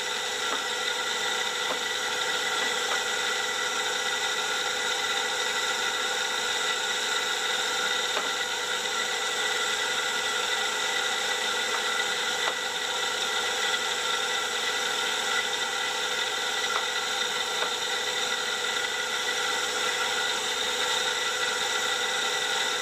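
SGS-612 benchtop surface grinder running steadily during a grinding pass, its spinning wheel and motor giving an even whine made of several steady tones, with faint ticks now and then. The owner suspects the wheel is very slightly out of balance.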